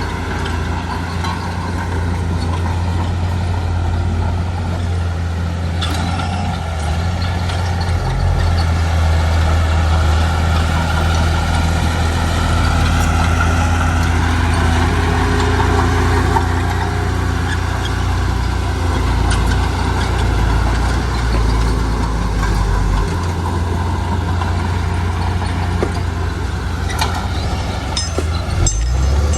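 Heavy diesel engine of earthmoving machinery running steadily under load, with a deep low hum and a few short metallic knocks near the end.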